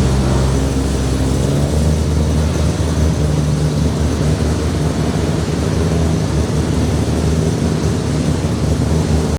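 Car engine idling nearby, a steady low-pitched sound.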